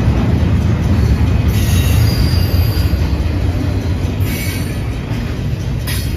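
Double-stack container cars of an intermodal freight train rolling past, a loud, steady low rumble of wheels on rail. Brief high-pitched screeches come about a second and a half in, about four seconds in and again near the end.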